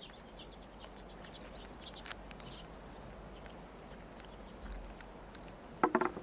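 Faint outdoor ambience with scattered small high chirps and clicks, ending in a short run of sharp knocks.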